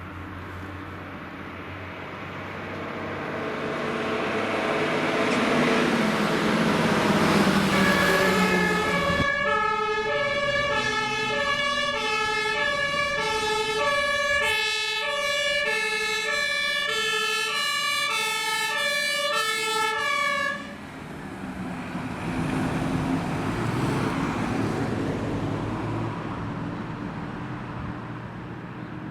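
A fire engine drives past with its engine and tyre noise growing louder. Then an LF10 fire engine approaches sounding a German two-tone siren, alternating high and low notes, which stops abruptly about twenty seconds in. Its engine keeps running as it passes and fades away.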